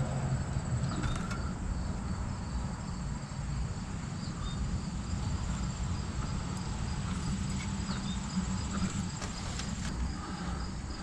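Insects chirping in a steady, high, pulsing trill, with a few faint clicks.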